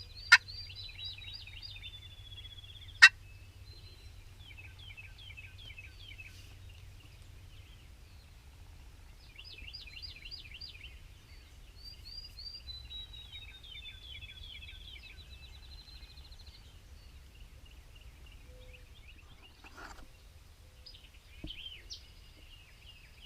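Songbirds singing in a mix of trills, chirps and falling glides, broken by two short, loud, sharp notes: one just after the start and another about three seconds in. A low steady rumble runs underneath.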